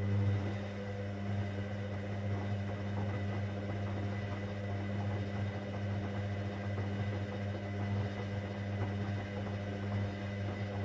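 Hoover Dynamic Next washing machine's drain pump humming steadily with a mains-pitch buzz, water gurgling and crackling through it as the drum is pumped out.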